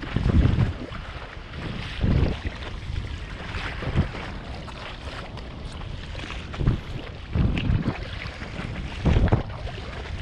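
Strong wind buffeting the microphone in heavy low gusts every second or two, over a steady rush of choppy sea water.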